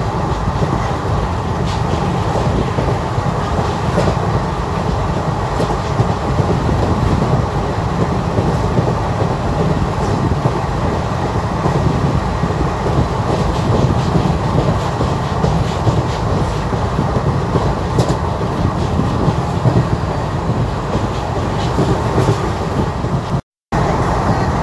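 Passenger train running on rails: a steady rumble of the wheels with occasional faint clicks. The sound cuts out for a split second near the end.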